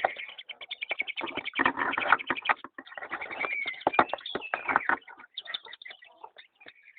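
Pet birds calling in a rapid, busy stream of short chirps, with a few short whistled notes that slide in pitch near the middle.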